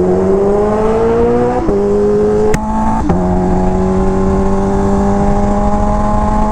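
Kawasaki Ninja H2R's supercharged inline-four engine pulling at an easy cruising pace during break-in. Its pitch climbs, steps with gear changes about 1.7 and 3 seconds in, then holds level. A brief click comes about 2.6 seconds in.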